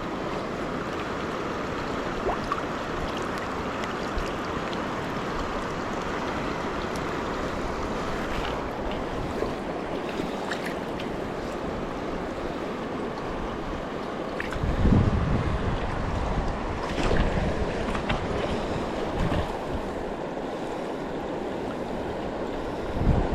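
Steady rushing of a fast river current. From about halfway through, low buffeting on the microphone comes and goes over it.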